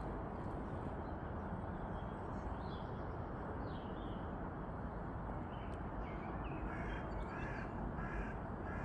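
Birds calling in short, scattered calls over a steady low background rush.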